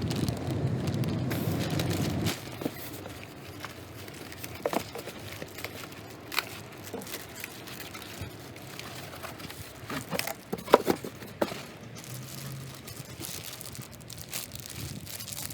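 A steady low hum that cuts off abruptly about two seconds in, then scattered light clicks, knocks and crinkling, like packaging and parts being handled.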